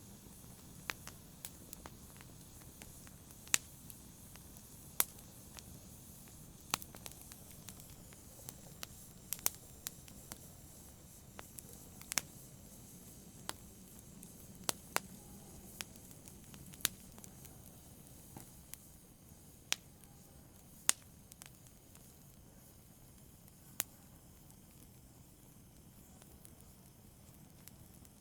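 Fireplace fire crackling: sharp, irregular pops every second or few over a faint steady hiss, with the pops dying away in the last few seconds.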